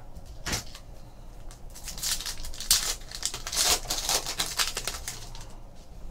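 Trading-card pack wrappers crinkling and tearing as packs are opened by hand, heaviest from about two seconds in to about five seconds in.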